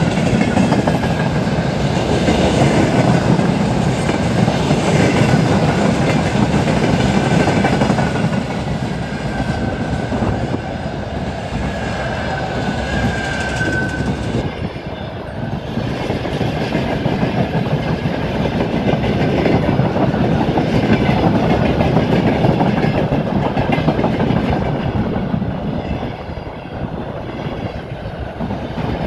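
Freight train wagons (container flatcars and empty flat wagons) rolling past close by, a continuous rumble and clatter of wheels on the rails. A thin high squeal wavers through the first half, rising slightly before it fades about halfway through.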